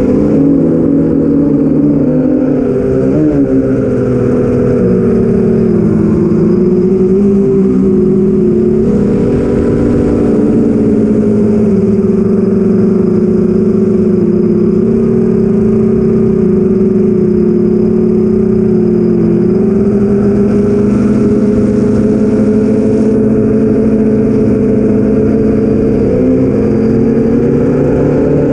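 Four BrotherHobby Avenger 2812 brushless motors spinning 8-inch Master Airscrew propellers on an FPV quadcopter in flight, heard from on board as a steady buzzing whine. The pitch dips and rises several times as the throttle changes.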